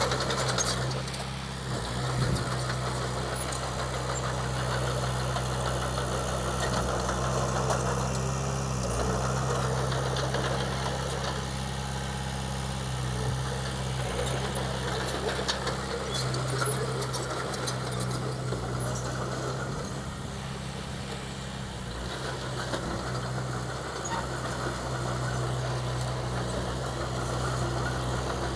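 Heavy diesel engine of earthmoving machinery running steadily, its level rising and falling a little as it works.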